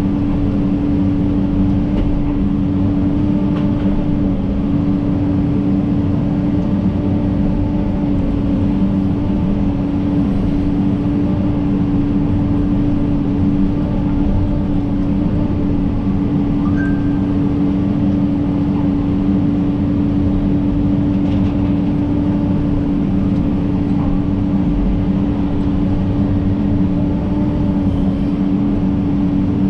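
John Deere 130G excavator's diesel engine running at a steady speed, a constant droning hum.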